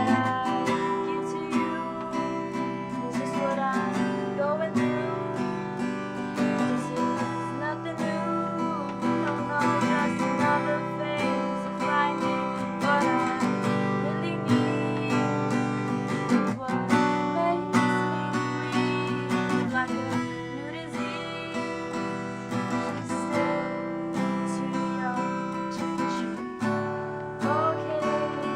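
Acoustic guitar strumming chords, with a melody line gliding above it.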